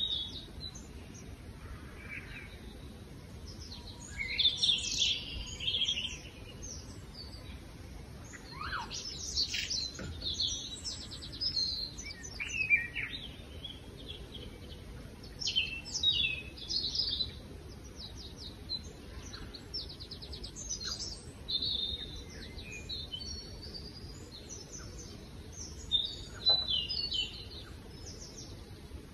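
Birds chirping and singing: scattered short phrases of quick, high notes and trills, over a steady low hiss.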